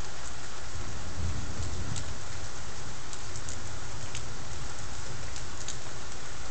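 Steady rain with scattered drops ticking, and a low rumble of thunder that swells about a second in.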